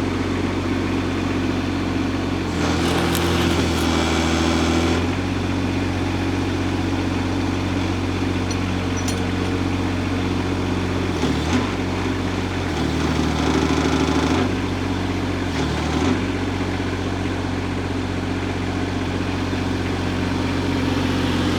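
Hytop HT20 Pro mini excavator's engine running steadily while its hydraulics are worked. The engine note changes several times under load: about two and a half seconds in, and again in shorter spells later on.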